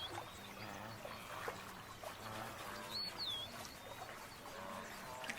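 Riverside wildlife ambience: a bird gives a short, curved whistled call at the start and again about three seconds in, over scattered fainter chirps and a low steady hum.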